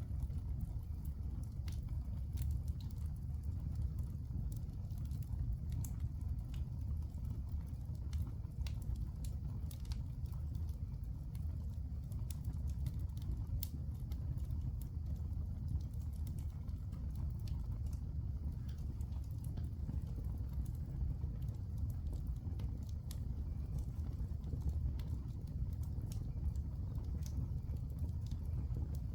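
Wood fire burning in a fireplace: irregular small crackles and pops over a steady low rumble.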